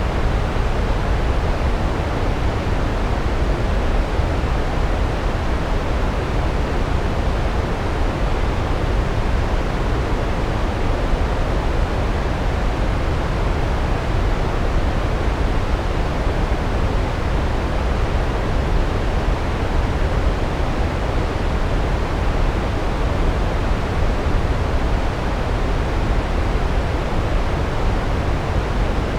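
Large waterfall pouring, a constant rushing noise with most of its weight in the deep low end and no breaks or changes.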